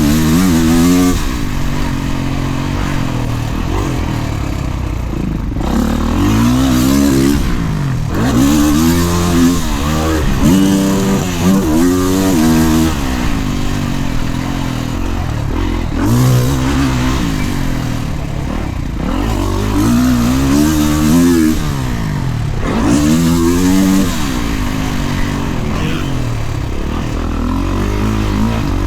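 Kawasaki KX450 motocross bike's single-cylinder four-stroke engine under riding load, revving up and falling back again and again every few seconds as the throttle is opened and chopped around the track.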